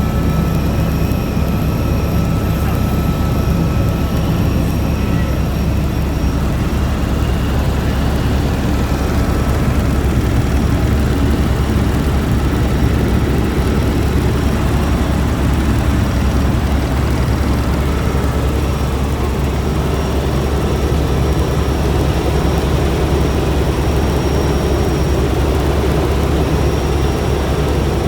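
Helicopter engine and rotor running steadily, a heavy, even low rumble that does not change.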